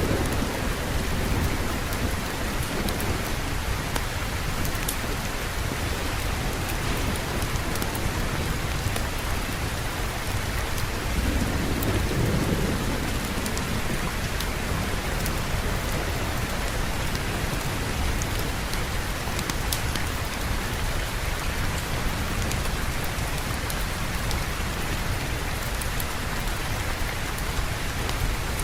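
Steady heavy rain, with a low roll of thunder swelling and fading about twelve seconds in.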